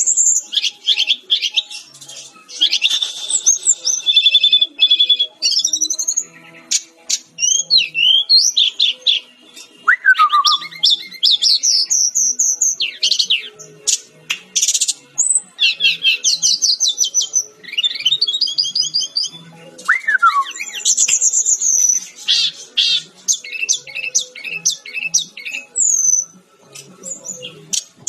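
Sikatan-rimba dada-coklat jungle flycatcher (Cyornis olivaceus) singing without pause: a rapid, varied run of high chirps and trills, with a lower whistle that slides down twice, about ten seconds apart.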